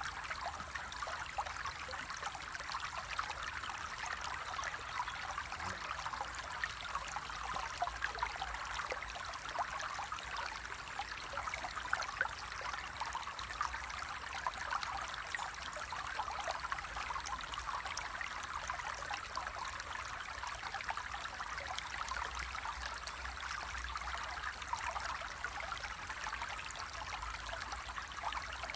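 Flowing water running and trickling steadily, a dense babble of small splashes.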